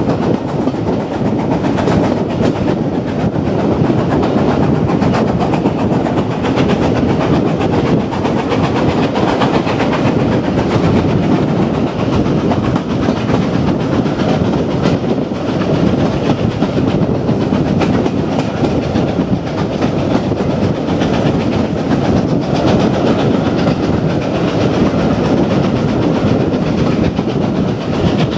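Railway coaches running steadily at speed, the wheels clattering over the rail joints above a continuous rumble, heard from on board the train.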